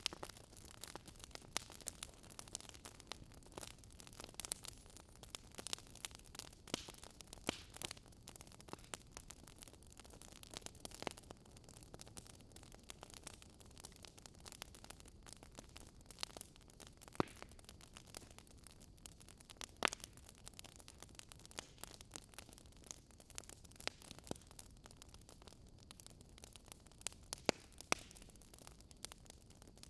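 Wood fire crackling in a fireplace: a soft steady hiss with a constant scatter of sharp pops and snaps, a few of them louder than the rest.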